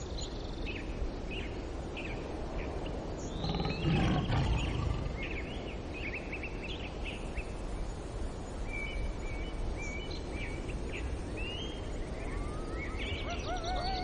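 Many small birds chirping over a steady outdoor hiss. About four seconds in comes a louder, low-pitched sound lasting a second or so, and near the end there are rising whistled bird notes.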